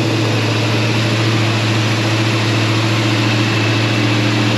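Chevy C-10 pickup's carbureted engine running with a steady low drone that holds an even pitch.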